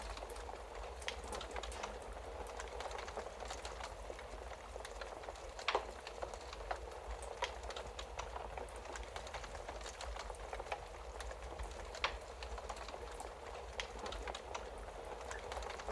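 Wood fire crackling with a steady hiss and scattered sharp pops, two louder ones about six and twelve seconds in, over a low steady hum.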